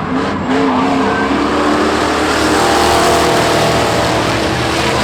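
Racing pickup trucks' engines running hard on the track as the pack goes by, swelling toward the middle, with some tire squeal.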